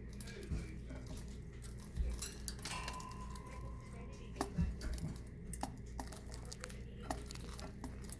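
Irregular small clicks and taps, like a cockatiel's beak pecking at food in a dish, with a short steady tone about three seconds in.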